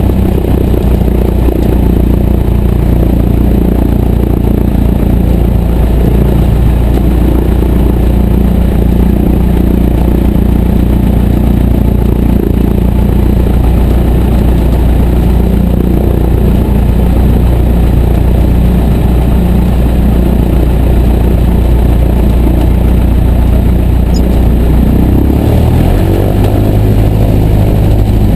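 Piper J3C-65 Cub's Continental A-65 four-cylinder engine running loud and steady, with a change in engine speed about 25 seconds in.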